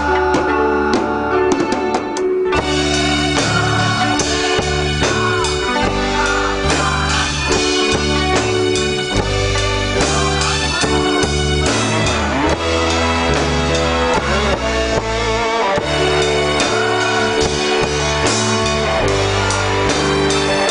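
Instrumental band music with a drum kit and guitar playing a steady beat, without singing; it thins briefly about two seconds in, then the full band comes back in.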